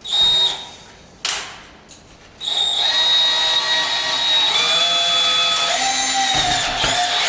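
Power drill worked on the wall's lath: two short bursts, then a steady run of about five seconds, its whine shifting in pitch partway through as the load changes.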